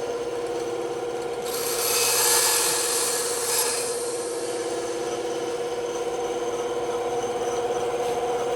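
Bandsaw running with a steady hum while its blade cuts through wood; the cutting noise swells from about one and a half seconds in to nearly four seconds, then eases back to the running hum.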